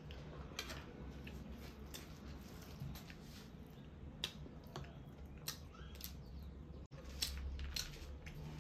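Close-miked eating: chewing and mouth sounds with irregular sharp crackles and clicks, several a second, over a low steady hum.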